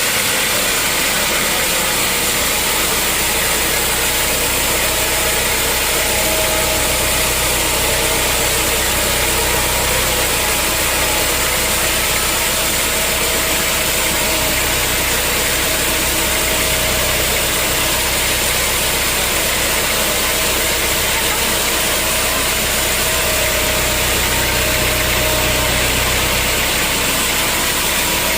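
Sawmill machinery running steadily: an even mechanical drone with a low hum and a constant hiss, no cuts or impacts standing out.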